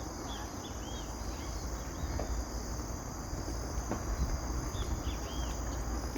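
A steady high-pitched insect chorus, with short arched bird chirps in two bouts, over a constant low rumble.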